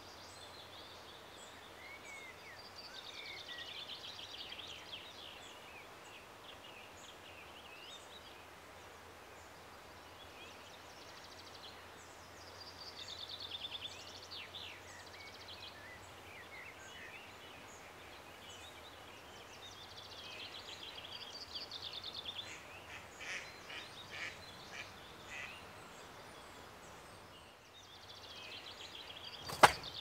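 A songbird singing, repeating high, rapid trilled phrases every several seconds over a faint steady outdoor background. A single sharp click near the end is the loudest sound.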